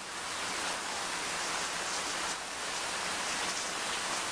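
Heavy rain pouring down, a steady, even hiss with no thunder.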